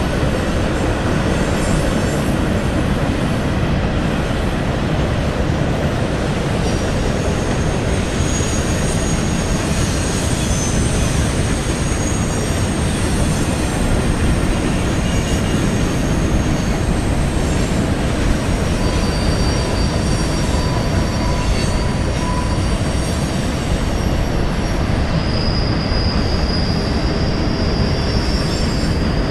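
CSX freight train's cars rolling past, a steady loud rumble of steel wheels on rail, with high-pitched wheel squeal coming and going over it.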